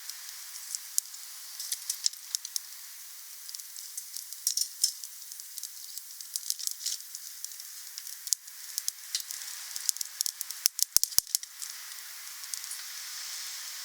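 Wood fire burning, crackling over a steady hiss, with a quick run of four sharp pops about eleven seconds in.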